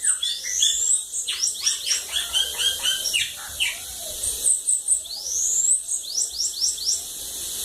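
Bananaquit singing a rapid song: a string of high, thin chirps mixed with quick falling and rising sweeps.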